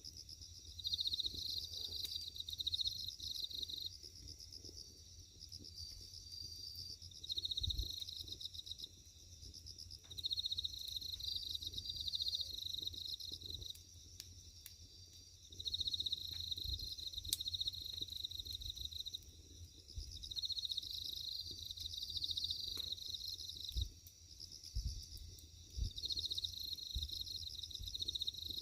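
Crickets chirping in repeated pulsed trills, phrases of one to three seconds, with a few sharp crackles from burning firewood and a steady low rumble underneath.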